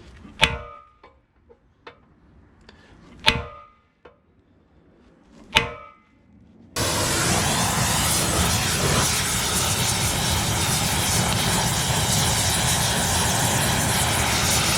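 Three ringing hammer blows on steel, a few seconds apart. About seven seconds in, a loud, steady machine noise starts abruptly.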